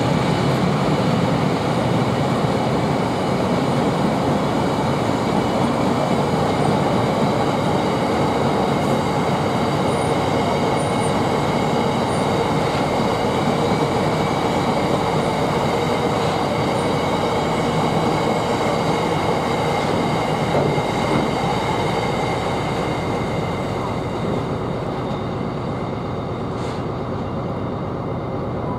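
Empty stone wagons of a freight train rolling past, a steady heavy rumble with high ringing squeal from the wheels on the rails, slowly fading away near the end.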